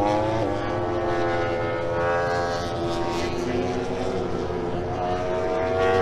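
Race motorcycle engines heard through a broadcast: a steady droning engine note with its pitch sagging slightly early on and rising a little near the end.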